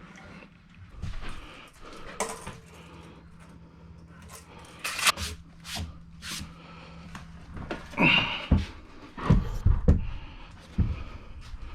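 Irregular knocks, clicks and short scrapes, the loudest cluster in the second half, over a faint steady low hum.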